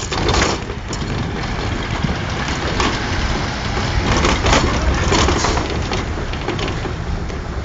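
A heavy diesel engine runs steadily under a dense crunching, rattling noise, with a few sharp cracks standing out.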